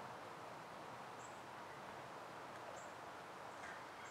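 Faint outdoor quiet: a steady low hiss with a short, very high bird chirp repeating about every second and a half.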